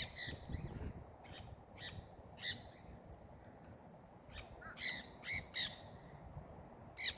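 A flock of parrots squawking in a tree: short, harsh, separate calls, about nine in all, thickest between about four and six seconds in.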